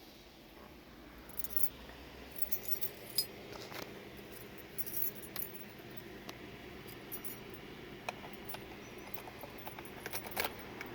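A bunch of keys jingling and clinking in short clusters, many small metallic clicks, over a faint steady background hum.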